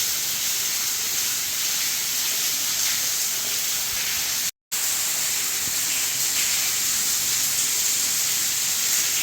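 Underground waterfall in a cave rushing with a steady, even hiss. It drops out for an instant about halfway through.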